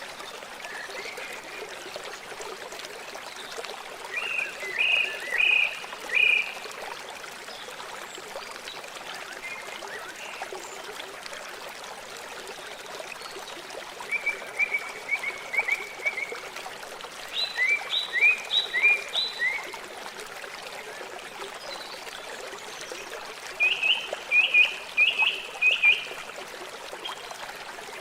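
River water flowing steadily, with a bird calling over it in several short runs of quick, repeated chirps, some of them slurring downward.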